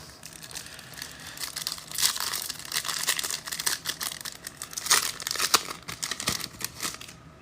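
Foil trading-card pack wrapper being torn open and crinkled by hand: an irregular run of crackling and rustling, louder in short bursts.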